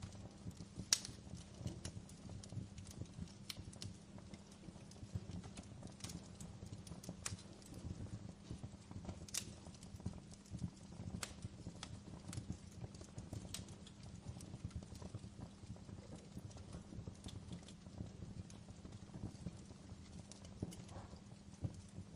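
Fireplace crackling: irregular pops and snaps from the burning wood over a steady low rumble of the flames.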